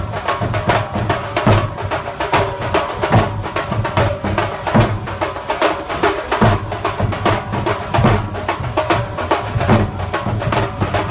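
Thambolam melam band playing: rapid, dense drumming with a heavy bass-drum stroke about every second and a half, and a steady melody over it.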